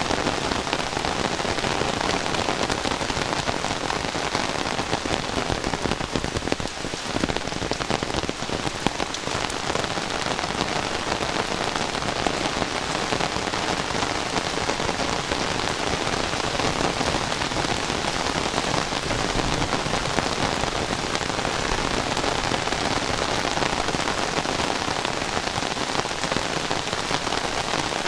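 Heavy rain falling steadily: a dense, even patter of drops hitting the ground and surfaces.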